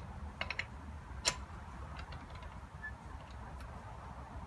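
A few light clicks and clinks of hand tools, with one sharper click about a second in, over a low background rumble.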